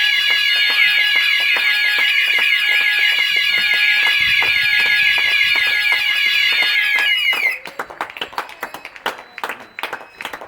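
Several fire alarm sounders going at once, a mix of steady and fast-warbling high tones, which cut off abruptly about seven and a half seconds in. Scattered clapping from neighbours carries on underneath and remains after the alarms stop.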